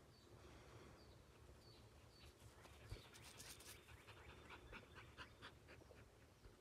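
Near silence: faint outdoor ambience with a bird's high chirps repeating about twice a second. A brief rustle comes about three seconds in, followed by a quick series of short ticks.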